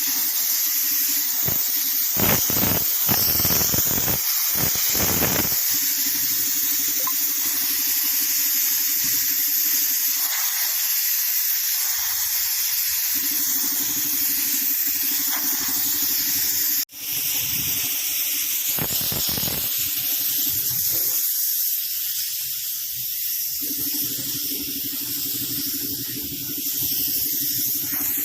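Compressed-air jet from an air compressor's blow hose hissing steadily as it blasts dust off a road surface. There are louder gusts in the first few seconds and again past halfway, over a low hum that comes and goes. The sound drops out for an instant a little past halfway.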